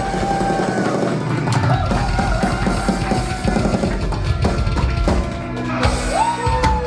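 Rock cover band playing, with a drum kit and bass drum driving a steady beat under a melody line.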